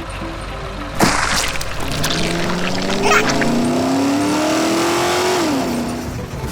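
A vehicle engine: a low steady rumble, then a sudden loud burst about a second in, after which the engine revs with a slowly rising pitch that drops off near the end.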